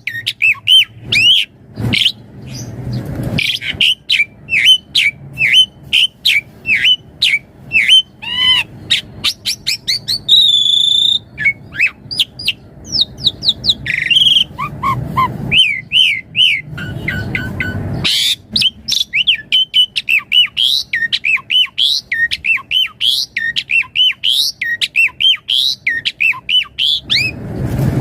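An Asian pied starling (jalak suren) singing a fast, varied song of chirps, whistles and harsh notes, with one longer held whistle about ten seconds in. A few short spells of low rustling noise come through under the song.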